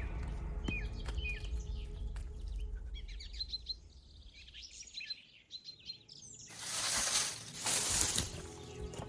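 Small birds chirping with short, quick calls, then about two seconds of loud rushing, hiss-like noise in the second half.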